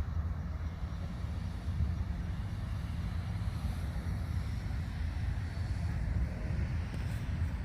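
Steady low rumble with an even hiss above it, unbroken and without distinct events.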